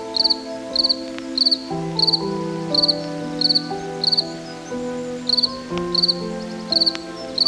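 A cricket chirping steadily, one short pulsed chirp about every 0.6 s, over soft background music with slowly changing held notes.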